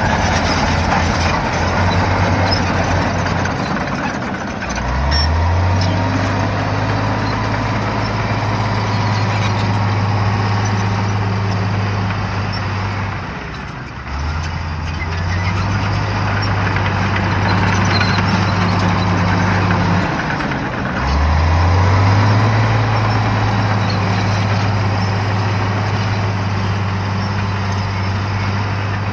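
Shantui bulldozer's diesel engine running under load. Its pitch dips and then climbs back up three times, about four, thirteen and twenty seconds in, as the engine is loaded and revved again.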